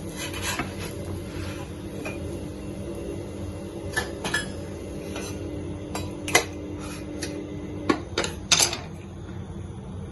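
Cookware clinking and knocking as a paratha pizza is taken out of a pan on the stove: a few sharp taps and clatters in the second half, the loudest about six seconds in, over a steady low hum.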